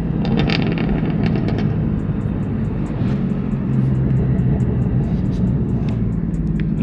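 Car cruising on the road: a steady low engine and road drone heard from inside the cabin, with a few light clicks about half a second to a second and a half in.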